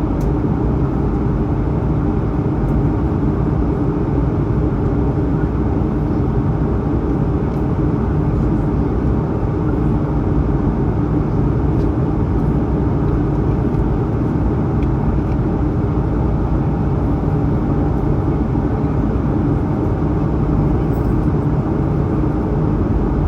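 Steady cabin noise of an Airbus A220-100 in its climb: the drone of its Pratt & Whitney PW1500G geared turbofans and the rush of air over the fuselage, heard from inside the cabin, with a faint steady hum in it.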